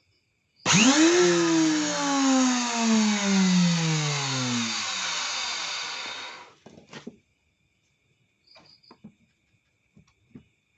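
A small electric power-tool motor, such as a wood trim router, starts and quickly spins up, then its pitch falls steadily over about five seconds as it slows. It cuts off abruptly, followed by a few faint clicks.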